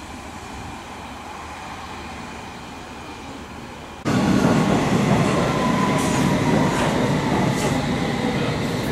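London Underground trains running: a low, distant rumble at first, then, from a sudden jump about four seconds in, a closer train approaching the platform, much louder, with a steady high whine, a wheel squeal slowly falling in pitch, and a few sharp clicks from the rails.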